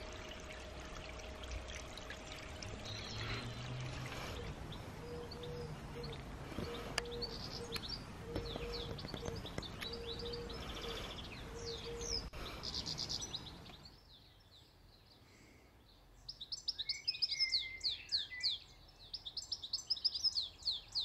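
Garden birds chirping over a steady outdoor hiss, with a low note repeated about seven times in the middle. After a short lull, a bird sings loud, rapid high chirps close by.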